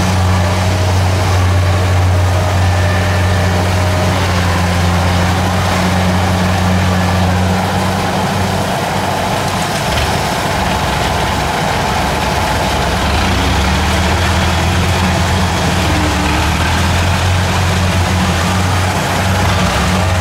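Kubota DC70 combine harvester's diesel engine running steadily with a low, even hum, its note wavering briefly about halfway through.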